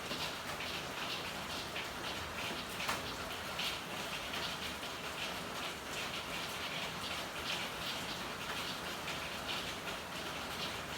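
Steady rain falling in an alley, a dense patter of drops with irregular individual drips striking hard surfaces close by.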